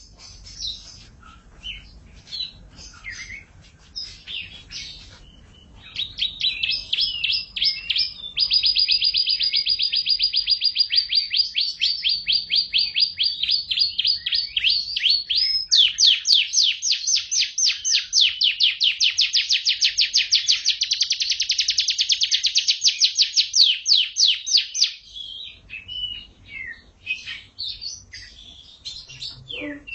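Canary singing: a few scattered chirps, then about six seconds in a long run of fast trills of rapidly repeated high notes, changing pace about 8 and 16 seconds in, breaking off into scattered chirps again about 25 seconds in.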